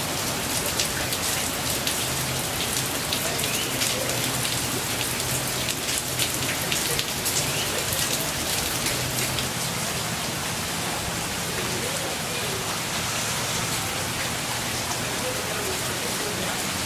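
Heavy rain pouring onto a flooded street, a steady hiss of drops splashing into standing floodwater, with many sharp close drop strikes in the first half.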